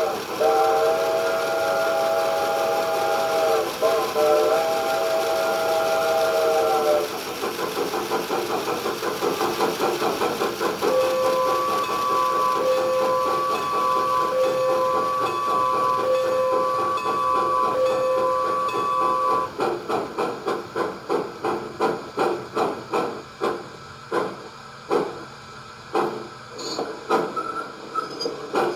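Stock steam-locomotive sound from a Crest Revolution receiver, played through a small speaker in a G-scale Bachmann 4-6-0's tender. A multi-tone whistle blows for about seven seconds, then steady chuffing with hiss follows, with a repeating tone over it from about eleven to nineteen seconds. Near the end the chuffs come further and further apart as the engine sound slows.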